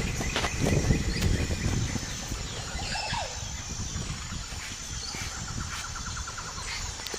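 Birds calling over a steady low rumble, with a short, rapid trill in the second half.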